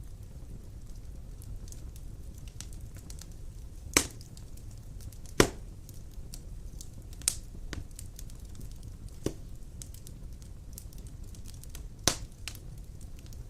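Large wood logs burning in a stone fireplace: a steady low rumble of flame with scattered faint crackles and about five sharp pops from the wood, the loudest two a few seconds in.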